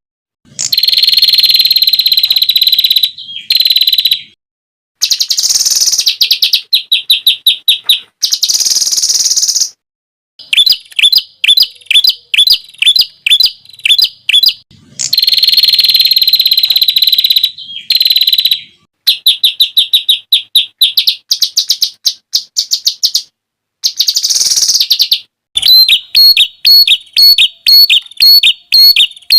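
Small songbird song of the rapid, piercing 'tembakan' kind: fast runs of sharp repeated high notes and buzzy trills in short phrases, each cut off by an abrupt silent gap.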